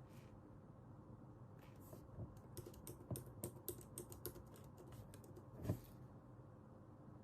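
Typing on a computer keyboard: a short run of quick key clicks starting about two seconds in, ending a little before six seconds with one louder key stroke, over faint room hiss.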